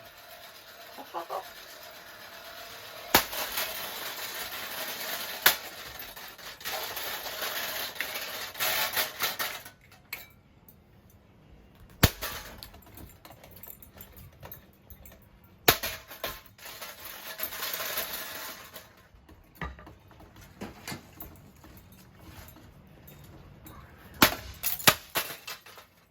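Hampton Bay Huggington 2 ceiling fan spinning hard, its air rush swelling and falling twice, with several loud sharp cracks and bangs as its blades and parts break and fly off.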